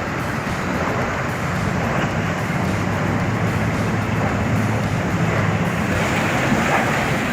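A heavy truck's engine running steadily under a loud, even rushing noise.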